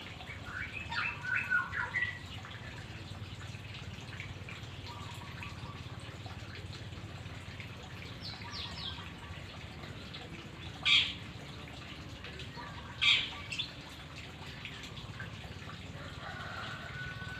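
White-rumped shama (murai batu) calling: a quick run of chirps near the start, a few faint short notes midway, and two loud, sharp calls about two seconds apart near the end, over a low steady hum.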